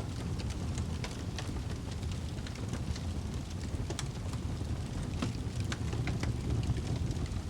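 Wood fire burning in a fireplace: a steady low rumble from the flames with irregular sharp crackles and pops from the burning wood.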